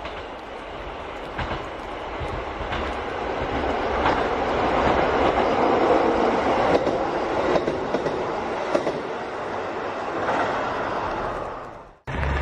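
KiHa 40 series diesel railcars passing, their engines running under a rumble of wheels on rail and regular clickety-clack as the wheels cross the rail joints. The sound builds as the train approaches, peaks as it goes by and fades, then cuts off abruptly near the end.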